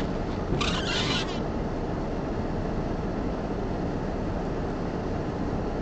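Steady low rumble of a car idling at a standstill, heard from inside the cabin. A short rasping noise sounds about half a second to a second and a half in.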